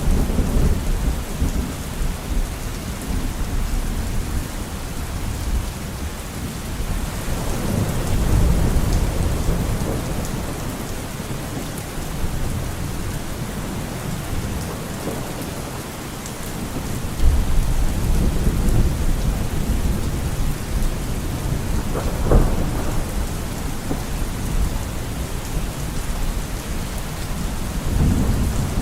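Steady heavy rain with rolling thunder: low rumbles swell and fade several times, with a sharper thunderclap about two-thirds of the way through.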